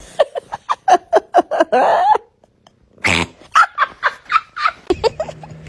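Cat making a rapid string of short, pitched calls, about five a second, ending in one longer call. After a brief silence a second run of short calls starts with a noisy burst.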